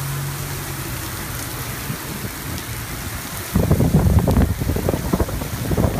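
Torrential rain pouring down, a steady hiss with a low hum under it that fades in the first second. About three and a half seconds in, the rain turns much louder and closer, a dense run of heavy hits.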